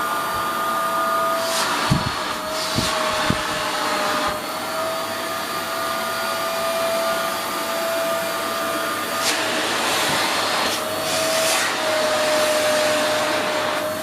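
1380W bagless vacuum cleaner running: a steady motor whine over the rush of air, its pitch shifting slightly now and then. There are a few thumps about two to three seconds in.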